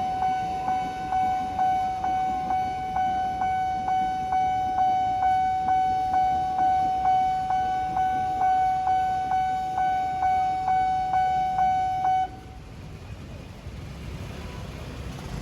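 Nippon Signal level-crossing warning bell dinging in an even rhythm, a little over twice a second, then cutting off suddenly near the end, leaving road traffic running.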